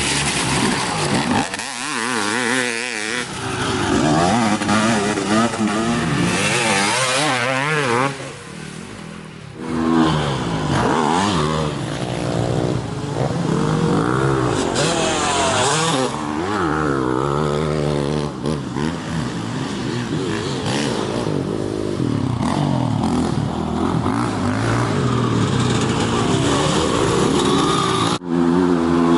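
Dirt bike engine revving up and down as it rides, its pitch repeatedly rising and falling with throttle and gear changes. It goes briefly quieter about eight seconds in, then revs hard again.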